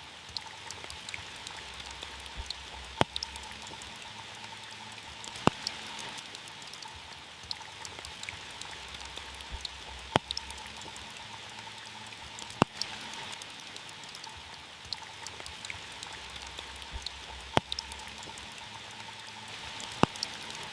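Steady rain falling on a car, a continuous hiss full of small drop ticks. Every few seconds a single big drop strikes sharply and louder than the rest.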